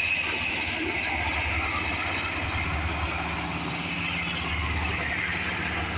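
Firefighting helicopter flying low overhead during a water drop: a steady rotor and engine rumble that swells and eases a little.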